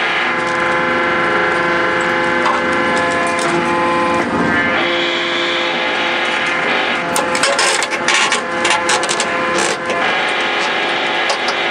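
Heavy machine's engine running steadily with a hum of several held tones, and a run of sharp clicks and cracks between about seven and ten seconds in.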